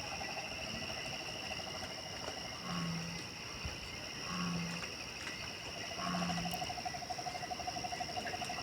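Night chorus of insects with steady high trills and a lower pulsing trill, while an animal gives three short, low hoots about a second and a half apart.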